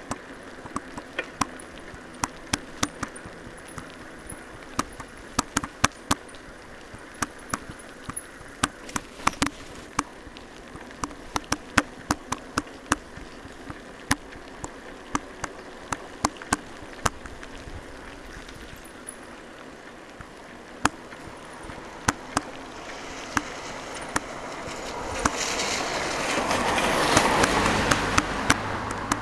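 Raindrops tapping irregularly and sharply close to the microphone, several a second. Near the end a vehicle passes on the wet road: a rising rush of tyre noise that peaks and starts to fade.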